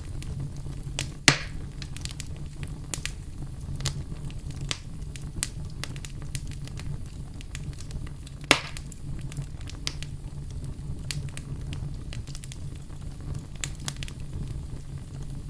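Fireplace fire crackling, with many small irregular snaps over a steady low rumble. Two much louder sharp pops come about a second in and about halfway through.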